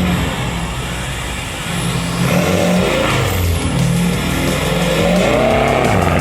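Subaru Forester turbo-diesel rally car driven hard on a stage, its engine note climbing and dropping repeatedly as it accelerates, shifts and lifts.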